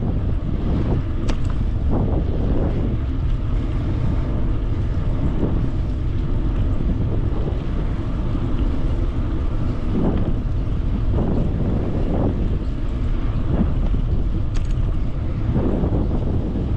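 Wind buffeting the microphone of a moving e-bike: a steady low rumble with irregular gusts that swell and fade.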